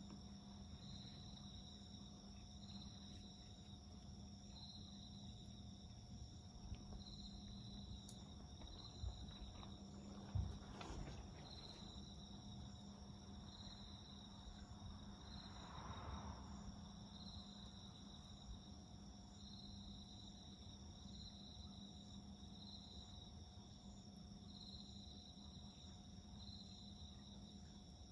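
Faint insects chirping in the garden at night, one short high chirp about every second over a steady high trill. A few sharp crackles from the wood fire come near the middle.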